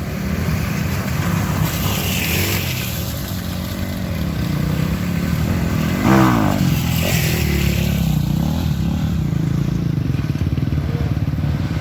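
Off-road motorcycle engines running, with one bike revving up sharply about six seconds in.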